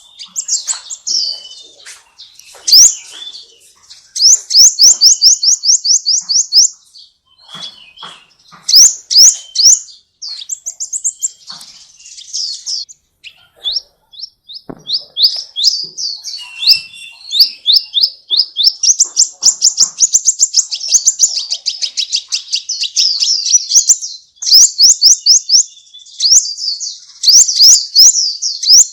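Songbird singing in long, rapid trills of repeated high, sweeping notes, about ten notes a second, in phrases of a few seconds broken by short pauses.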